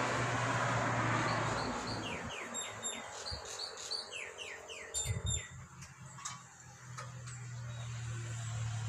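A bird calling in two quick runs of short, falling chirps, about two and a half and four and a half seconds in, over a steady low hum. A rushing noise dies away over the first two seconds.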